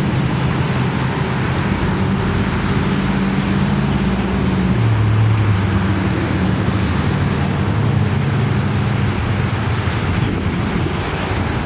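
Strong storm wind gusting across the microphone: a loud, continuous rush with a low, shifting rumble underneath.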